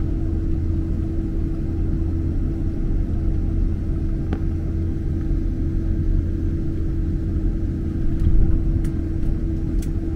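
Boeing 767-300 cabin noise heard from a window seat: a steady low rumble with a constant droning hum, and a few faint clicks near the end.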